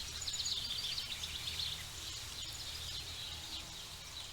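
Forest ambience: birds chirping in quick runs of short high notes, one run in the first second and a half and another near the middle, over a steady low background rumble.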